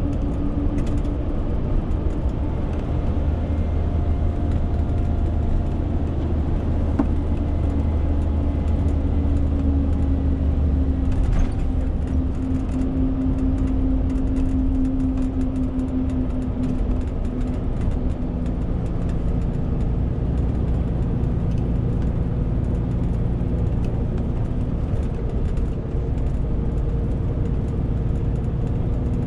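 Renault T520 truck's six-cylinder diesel engine running steadily while driving laden with about 40 tonnes, with road noise underneath; the engine note changes about a third of the way in and again a little past halfway.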